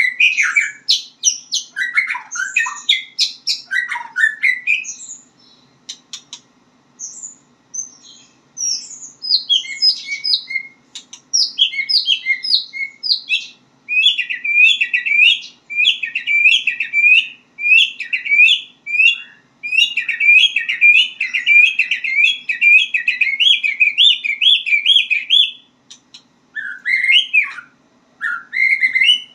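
White-rumped shama (murai batu) singing varied phrases of quick whistles and chirps, falling quiet for a couple of seconds about six seconds in. Near the middle it gives a long run of rapid repeated notes.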